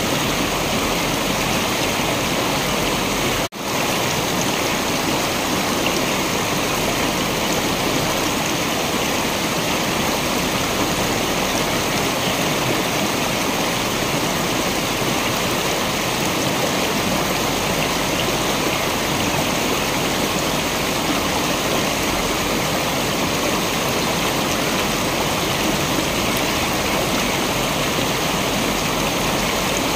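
Waterfall: a steady rush of falling water. It cuts out for a split second about three and a half seconds in.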